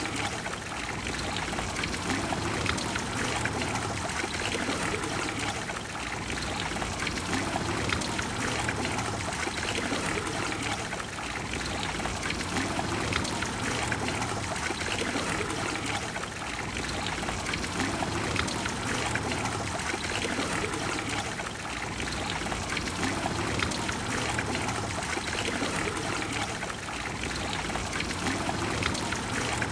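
Trevi Fountain's water falling and cascading into its basin: a steady rush and splash of water that eases slightly about every five seconds.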